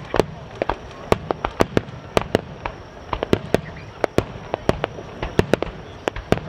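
Aerial fireworks going off in rapid, irregular succession, several sharp bangs and cracks a second over a continuous rumble of further bursts and echoes.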